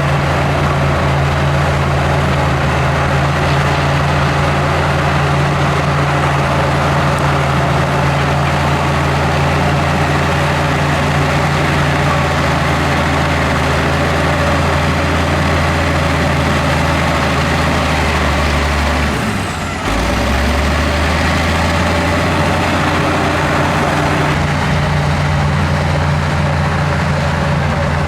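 Diesel engine of heavy earthmoving machinery running steadily under work, a low, even drone, with a brief dip and break about two-thirds of the way through.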